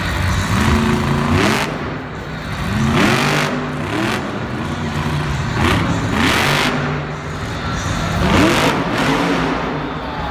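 Monster truck engines revving hard, pitch sweeping up in repeated bursts of throttle, about four times, with bursts of rough noise between.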